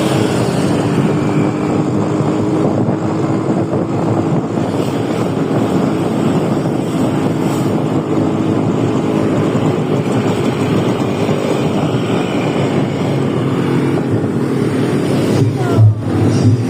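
Motorcycle engine running while riding, with wind buffeting the microphone. Louder wind thumps come near the end.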